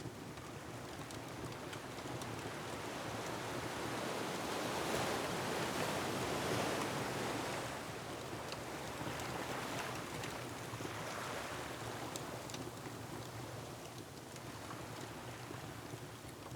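Ocean waves surging against a rocky shore, one swell building to a peak about five to seven seconds in and then easing off, with a fireplace crackling in scattered small pops.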